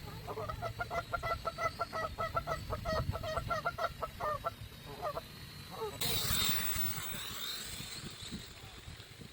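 Waterfowl giving a rapid run of repeated honking calls, several a second, that breaks off after about four seconds with a few last calls. About six seconds in, a loud rushing noise with sweeping pitch comes in and fades out.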